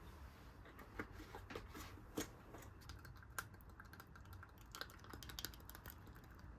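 Faint, irregular light clicks and taps, coming thicker in the second half, over a low steady hum.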